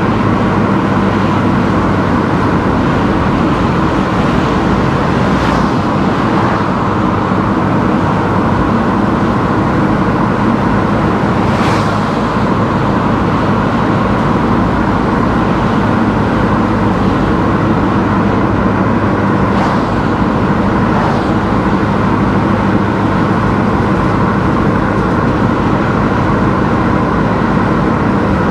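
Car driving along a road: steady engine and tyre noise, with a few brief swishes along the way.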